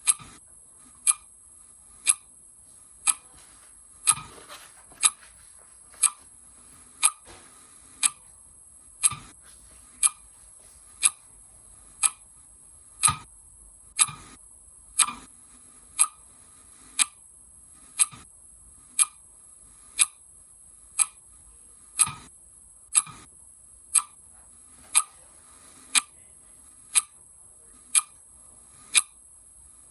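Clock ticking steadily, one sharp tick a second, with a few faint softer noises in between.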